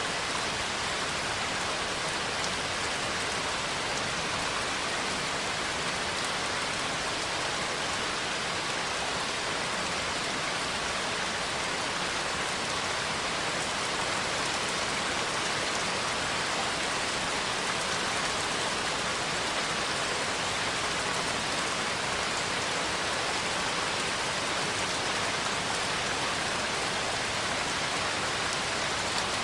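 Steady rain falling, an even hiss of many drops with no single sound standing out.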